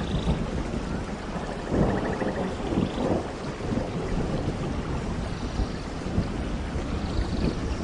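Steady tropical rain pouring down, with a low rolling rumble of thunder underneath. Faint bird calls come through the rain now and then.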